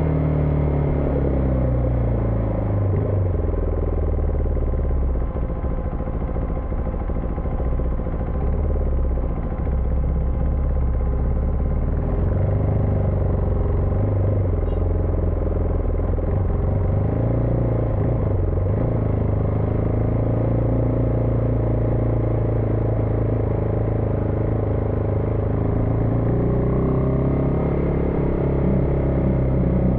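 Husqvarna Vitpilen 401's single-cylinder engine running on the move. Its pitch falls over the first couple of seconds as the bike slows, shifts up and down with the throttle, and climbs again near the end.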